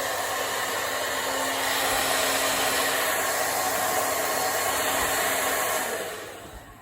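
Handheld hair dryer blowing steadily with a faint motor hum, then switched off about six seconds in, its rush of air dying away over about a second.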